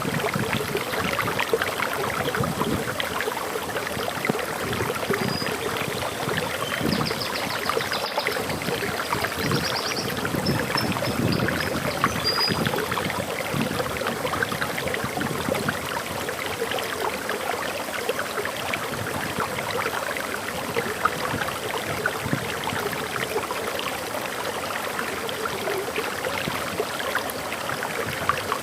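Waterfall flowing steadily. Between about five and thirteen seconds in, a bird gives a few faint, short, high chirps.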